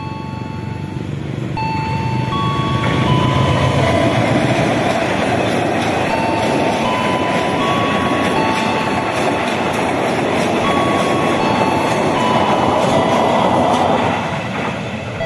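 Passenger train passing close by: the rushing rail and wheel noise of the train builds about two seconds in, holds as the coaches go by and drops away near the end.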